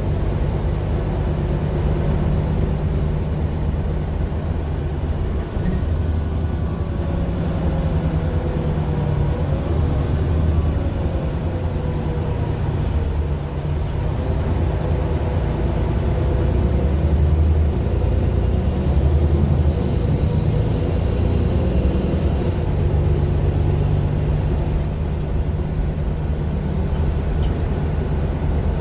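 Mercedes-Benz Citaro LE city bus with its Daimler OM 457 hLA straight-six diesel running steadily, a low drone that swells and eases. A faint whine falls and rises in pitch about a third of the way in.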